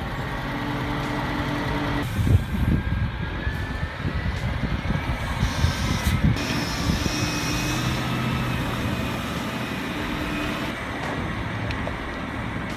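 Heavy Scania G490 8x8 truck's diesel engine running steadily while hauling a load, with rough noise under it. The sound changes abruptly twice, about two and about six seconds in.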